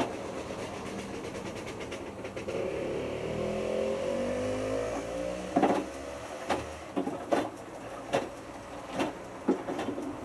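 Hotpoint Futura washing machine's drum motor speeding up with a rising whine, then a run of sharp knocks from the turning drum about every second.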